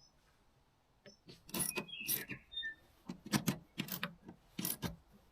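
Small metal parts clinking and knocking as they are handled, in several quick clusters starting about a second in, with a brief squeak around two seconds in.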